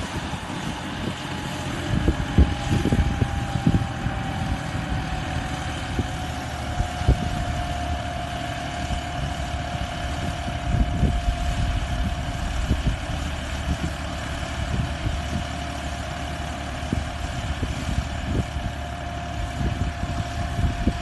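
John Deere 5405 tractor's CRDi diesel engine running steadily while pulling a 15-tine cultivator. A steady whine eases slightly lower in pitch over the first several seconds, with scattered irregular thumps throughout.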